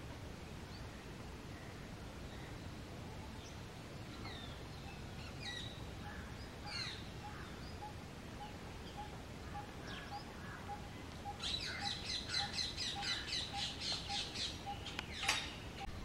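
Wild birds calling. Scattered short chirps come first, then a fast run of evenly repeated notes about four a second, ending in one sharp, loud call. A soft low note repeats about twice a second underneath.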